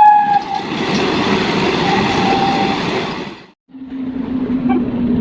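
An Indian Railways train's horn sounds briefly, then the train rushes past with a loud, even rush and rattle. The sound cuts off abruptly a little past three and a half seconds, and another train follows with a lower, steady drone and faint clicks.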